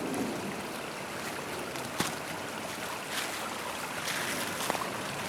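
Small creek flowing: a steady rush of running water, with a few faint clicks.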